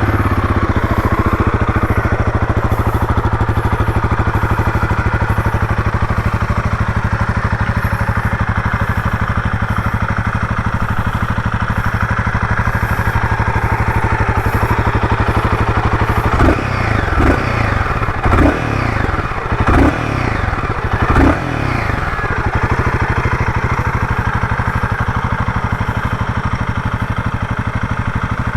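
Royal Enfield Guerrilla 450's single-cylinder engine idling steadily. About halfway through it is blipped on the throttle several times, revving up and dropping back, then settles back to idle.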